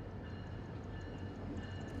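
Low, steady rumble of a train close by, with faint steady high tones above it.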